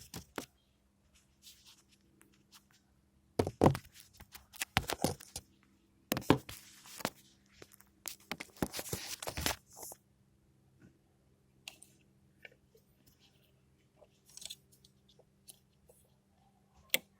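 Hands working on engine parts: irregular clicks and knocks with bursts of scraping and rustling, busiest in the middle, as parts and wiring are handled and fitted.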